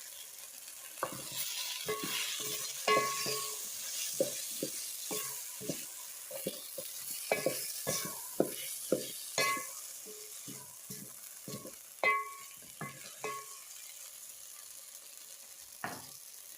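A spoon stirring food in a metal cooking pot, knocking and scraping against the pot in a long run of ringing clinks, over a faint sizzle of frying. The clinking stops about 13 seconds in, with one more knock near the end.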